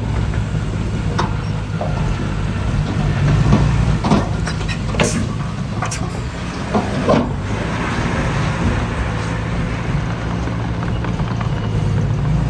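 Heavy earthmoving machine's diesel engine running steadily under work, with several sharp metallic clanks and knocks in the middle.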